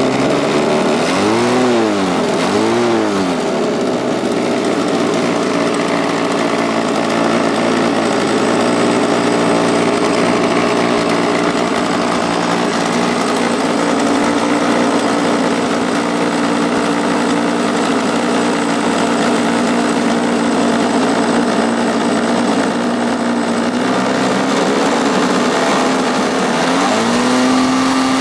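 25cc Ryobi two-stroke strimmer engine fitted in an RC boat, running fast and steady; the throttle is blipped twice about a second or two in, the pitch rising and falling quickly each time, and again near the end.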